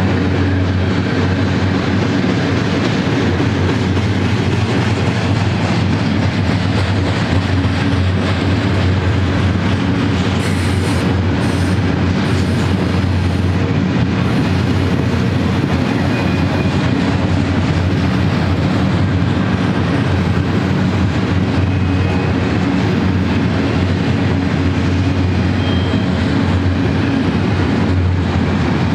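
Double-stack intermodal freight train's well cars rolling steadily past: a constant, loud low rumble of steel wheels on rail.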